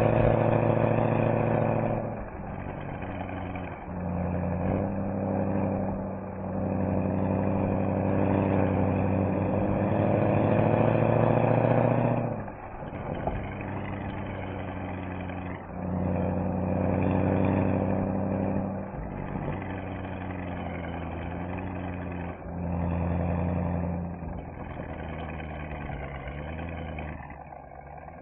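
Mercedes-AMG SL63's V8 engine and exhaust on a drive, accelerating hard several times with the pitch rising, and easing back to a quieter cruise between pulls. The longest pull lasts about six seconds before the throttle closes about twelve seconds in.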